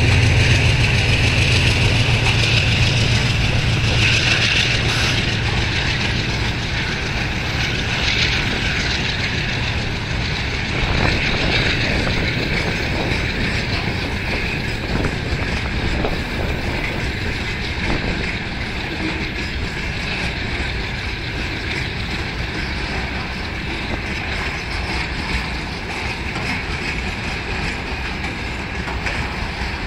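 Ammonia tank wagons of a departing freight train rolling past, wheels clattering over the rail joints with scattered knocks. The diesel locomotive's low engine hum fades away in the first few seconds as it pulls ahead.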